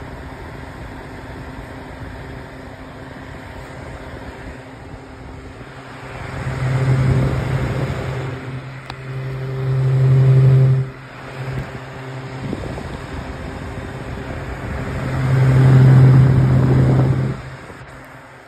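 Holmes Blizzard Junior desk fan running on high speed with a steady whooshing hum. Three times it swells into a much louder low rumble for a few seconds, the last two surges cutting off abruptly.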